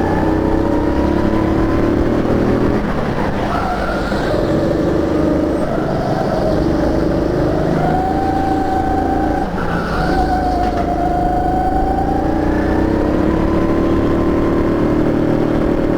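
Sodi rental go-kart's engine heard from on board under hard throttle. Its pitch climbs and then drops back again and again as the kart speeds up along the straights and slows for the corners.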